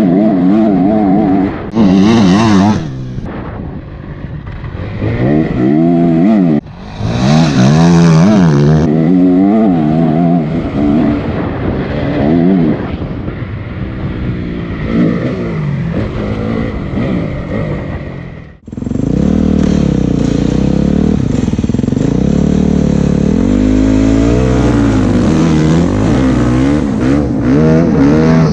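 Honda CRF 250 dirt bike's single-cylinder four-stroke engine revving up and down with throttle and gear changes while riding the track, with brief bursts of hiss around two and eight seconds in. About two-thirds through the sound drops out sharply for an instant, then the engine runs at a steadier pitch.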